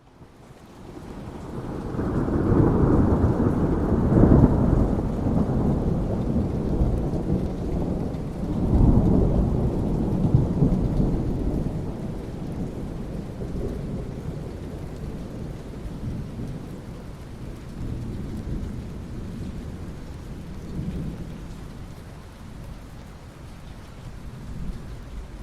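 Rolling thunder over steady rain: a deep rumble swells up over the first couple of seconds, rolls again about nine seconds in, then slowly dies away, leaving the rain's even hiss.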